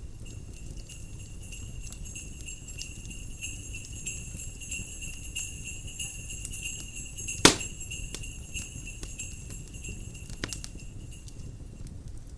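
Sleigh bells jingling steadily for about eleven seconds, stopping near the end, over the low rumble of a fire. A single loud crackle pops from the fire about halfway through, with a few fainter crackles around it.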